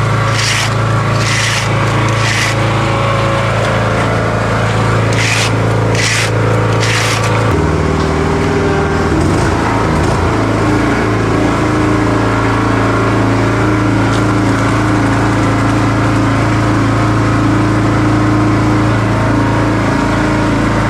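A construction machine's engine running steadily, its pitch changing about eight seconds in. Over the first seven seconds come a series of quick scraping strokes, about two a second, of a hand tool working wet concrete.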